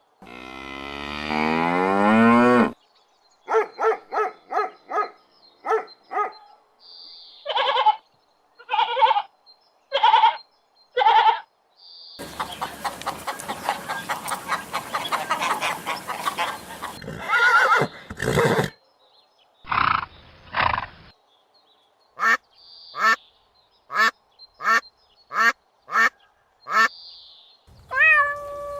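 A sequence of farm animal calls from several separate clips: a long call at the start, groups of short repeated calls with pauses between them, and a longer noisy call of about five seconds in the middle.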